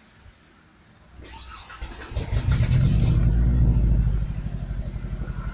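A truck's starter cranks for about a second, then the engine catches and revs up before dropping to a lower, pulsing idle. The truck keeps stalling, which the owner takes for running out of gas.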